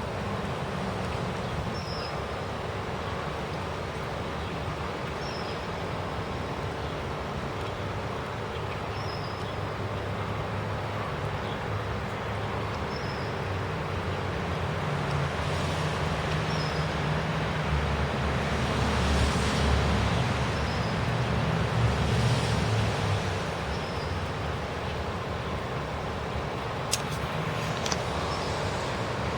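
Steady road-traffic hiss, with a motor vehicle passing by in the middle: a low engine rumble swells and fades over several seconds.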